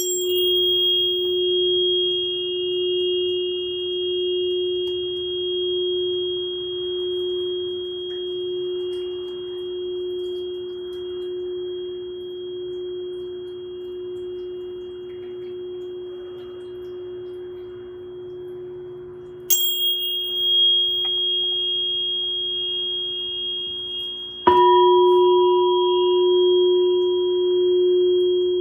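Glass singing bowl and singing pyramid ringing with pure sustained tones. A deep tone holds throughout with a slow, even wobble, under a higher ringing tone that is struck again about twenty seconds in. A few seconds later a further strike brings in a middle tone and makes the deep tone louder.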